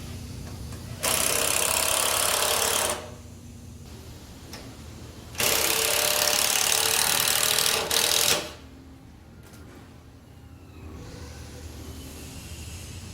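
Handheld power tool cutting timber in two runs, one of about two seconds and one of about three, each starting and stopping abruptly, over a steady low hum.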